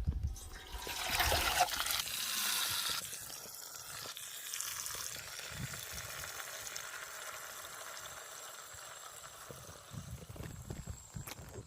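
Running water, loudest for the first few seconds, then settling to a softer, steady trickle.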